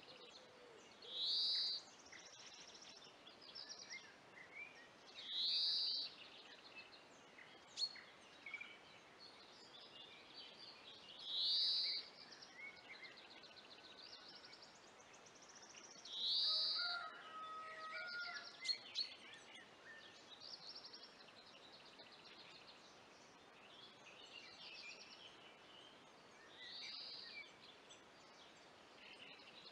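Songbirds singing in woodland: one bird repeats a short, clear phrase every few seconds, with fainter chirps and rapid trills from other birds in between.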